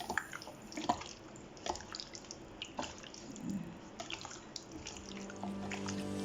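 Wet, irregular squishing and clicking of raw chicken wings being mixed into a marinade in a bowl. Background music comes in near the end.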